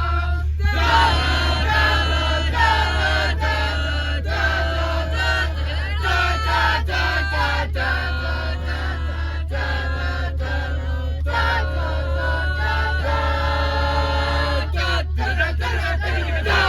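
A group of voices singing together in chorus, over a steady low hum.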